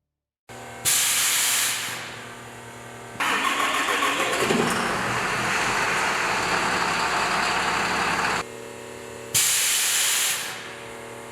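The Lowliner's air suspension hisses in two short bursts, one about a second in and one near the end, as it vents air. Under the hiss a truck engine runs steadily, louder for several seconds in the middle. This is likely the 5.9-litre Cummins diesel.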